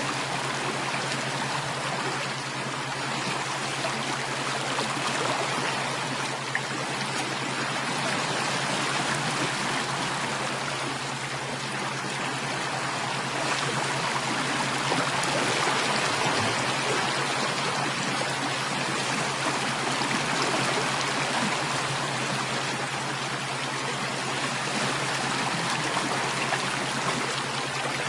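Steady, continuous running water of a stream, an even rushing and trickling with no breaks, over a steady low hum.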